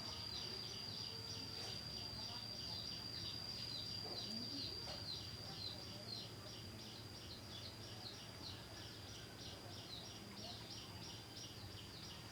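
An insect calling: a continuous high-pitched whine with rapid pulsed chirps at about four a second over it, the chirping fading out near the end.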